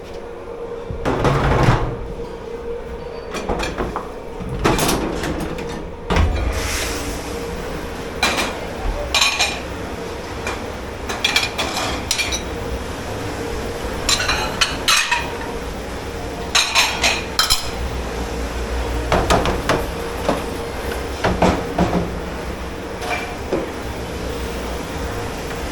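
Dishes, pans and cutlery clattering and clinking as they are handled and stacked for washing, in irregular runs of sharp knocks, over a steady machine hum.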